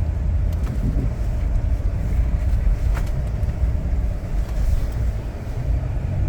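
Car driving along, a steady low rumble with a single faint click about three seconds in.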